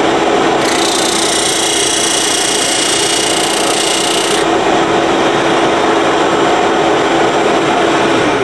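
Power tool working a cedar fence-picket board: a steady motor hum under a rough rubbing noise, which turns harsher and hissier from about half a second to four seconds in. The motor is switched off at the very end and begins to wind down.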